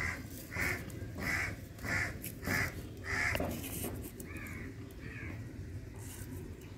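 A bird calling repeatedly: about six calls in an even run a little over half a second apart, then two or three weaker ones.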